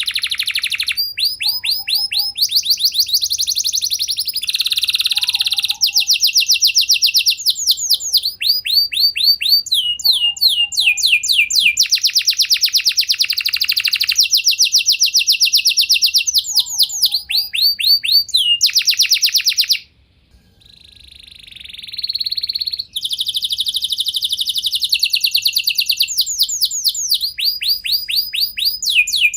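Domestic canary singing a long song of rapid rolling trills, one trilled phrase after another, with a short break about two-thirds of the way through before the trills resume.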